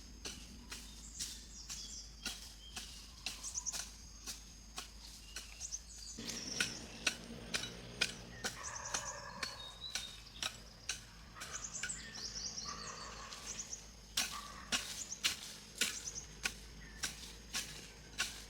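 A run of sharp taps or knocks, irregular and a few a second, with birds chirping high over them.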